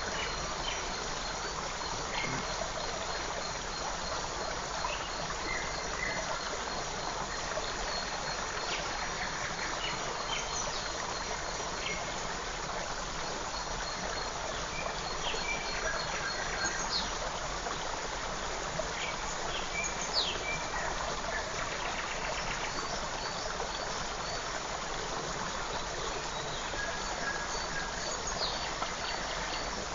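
Forest creek running steadily, with scattered short bird chirps over it and a faint high, steady pulsing trill that sounds like an insect.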